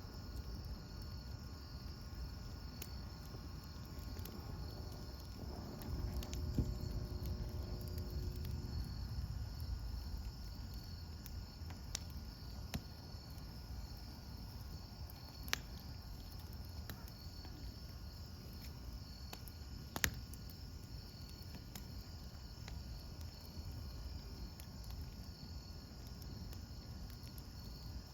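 Campfire burning with a low rumble and scattered sharp pops of burning wood, one of the loudest about twenty seconds in. Crickets chirp steadily throughout.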